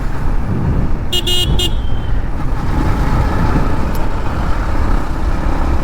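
Riding noise of a motorcycle on the road: a steady low engine and wind rumble, with a short burst of vehicle horn beeps about a second in.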